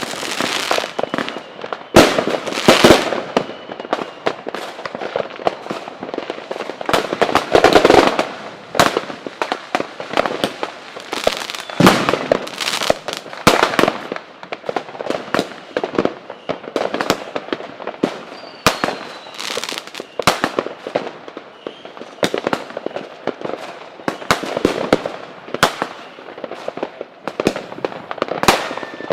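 Fireworks display: a dense, continuous run of sharp bangs and crackling shell bursts, many overlapping. Faint whistles glide in pitch now and then, one about nineteen seconds in.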